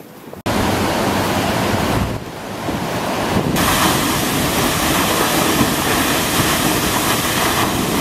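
Loud, steady rush of fast-flowing water, with wind blowing on the microphone; it starts abruptly about half a second in.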